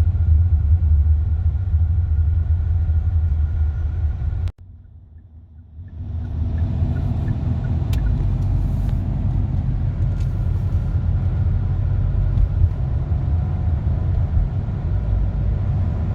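Steady low rumble of road and engine noise inside a moving car's cabin. About four and a half seconds in it drops away sharply for a second or so, then comes back.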